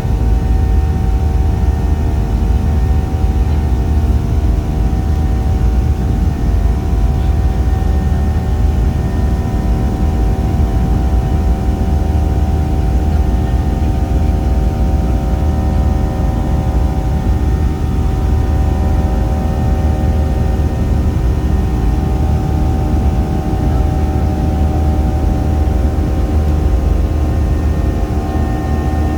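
Airliner engines running steadily: a continuous low rumble with several steady tones over it, holding the same pitch and level throughout.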